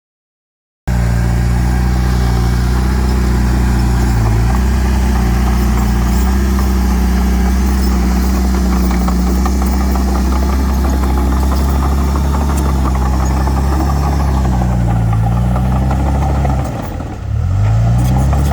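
Diesel engine of a Komatsu D31 crawler bulldozer running steadily and loud. Near the end its pitch dips and recovers a couple of times, with a short drop in level.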